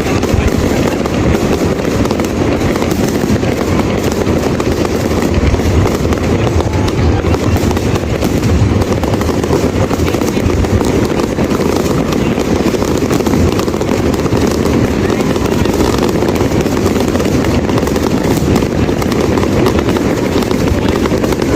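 Fireworks display: a dense, unbroken run of booms and crackles with a heavy low rumble.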